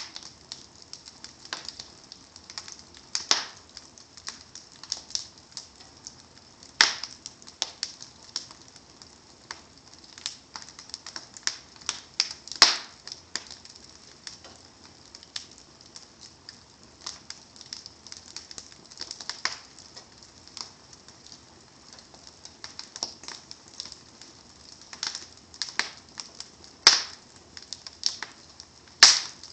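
Wood fire crackling: burning logs give irregular sharp snaps and pops over a faint hiss, with a handful of louder pops.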